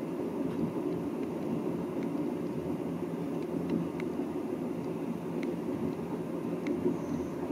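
Steady running rumble of a long-distance passenger train, heard from inside its sleeping-car compartment, with a few faint scattered clicks and rattles.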